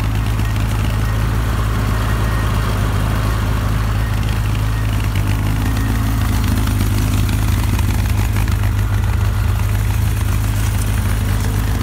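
Rebuilt Ford Pinto four-cylinder engine, rebored to 2.2 litres, idling steadily in a Robin Hood kit car.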